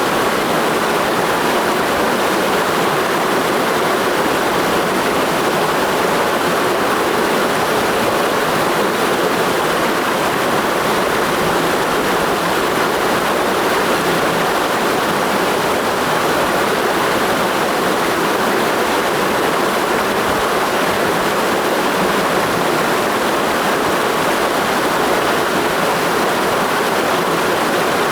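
Mountain stream rushing steadily over rocks, a continuous even roar of clear water.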